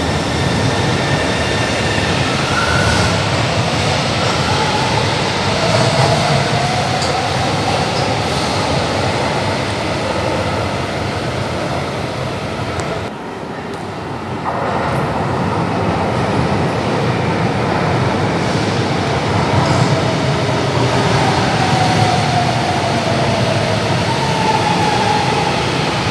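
São Paulo Metro Line 2 train running through the station: a loud, steady rumble of wheels on rails with faint whining tones that glide up and down, easing off briefly about halfway through before building again.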